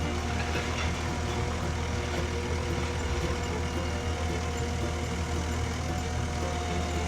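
Skid steer engine running steadily at an even speed while the machine works logs with its forks.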